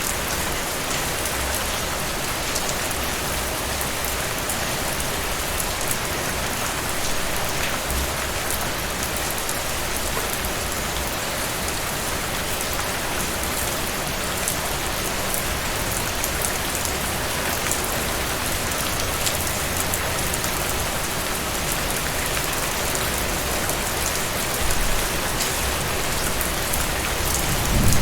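Heavy rain falling steadily, an even hiss of drops with fine patters on top. A low rumble swells briefly near the end.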